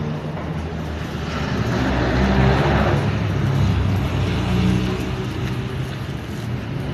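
A motor engine running with a steady low hum, and a rushing noise that swells and fades about two to three seconds in.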